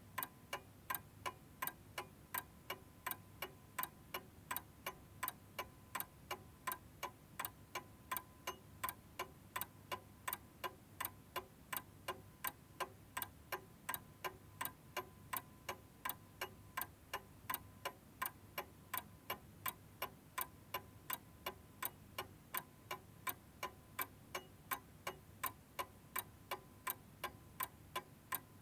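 Chiming clock ticking steadily and evenly, about two and a half ticks a second, with no chime sounding.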